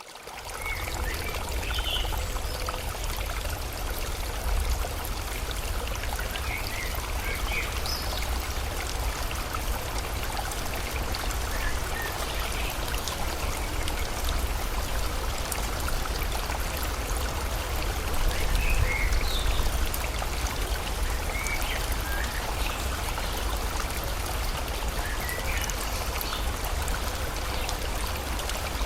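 Steady rushing water of a stream or rain, with a deep rumble underneath, fading in at the start. Short bird chirps come through every few seconds.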